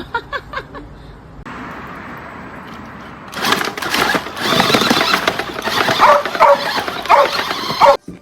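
A dog yipping in quick short barks, about five in a second; after a cut, a louder, noisier stretch with short rising-and-falling calls that stops abruptly near the end.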